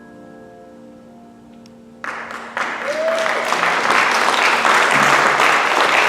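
The last piano chord of a jazz piece rings and dies away. About two seconds in, audience applause breaks out suddenly and swells.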